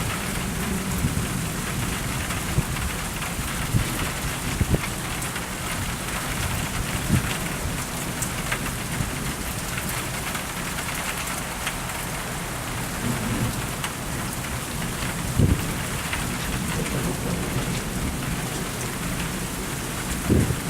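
Rain falling steadily during a thunderstorm, with thunder; a few short, sharp knocks stand out about a quarter, a third, three quarters of the way through and near the end.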